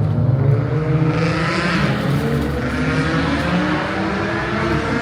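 Supercharged 6.2-litre HEMI V8 of a Dodge Charger Hellcat Redeye pulling under acceleration. Its pitch climbs over the first couple of seconds, then holds fairly steady.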